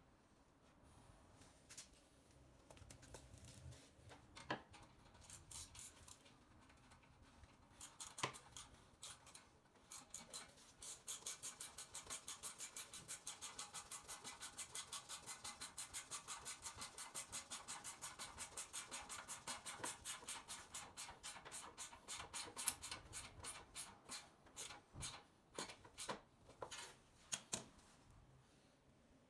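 A ratchet wrench clicking: scattered clicks and scrapes at first, then about ten seconds in a long, even run of sharp clicks, about five a second, then a few slower, irregular clicks near the end.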